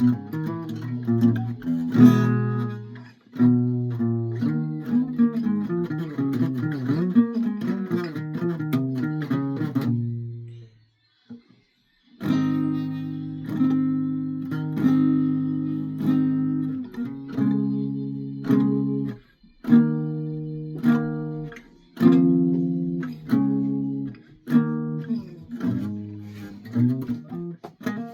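Guitar being played: quick runs of picked notes and chords, a brief stop about ten seconds in, then a series of struck chords, each left to ring and die away.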